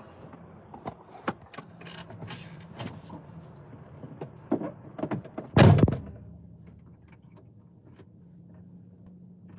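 Knocks and clicks of getting into a semi-truck cab, then the cab door shut with a loud thud about five and a half seconds in. A steady low hum runs underneath.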